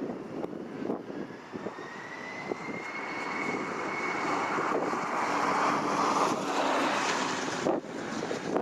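Jet airliner's engines passing, with a whine that rises in pitch and a rushing noise that builds to its loudest about six to seven seconds in, then falls away sharply near the end.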